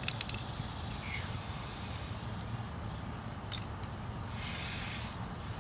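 Short spray of aerosol chain lube, a brief hiss about four and a half seconds in, over a faint low steady hum with a few soft clicks.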